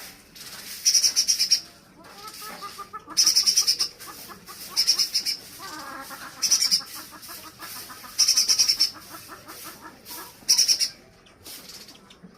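Spiderhunter (pijantung gunung) calling: about seven loud bursts of very fast, high-pitched chattering notes, each under a second long and coming roughly every one and a half seconds, with softer, lower twittering in between.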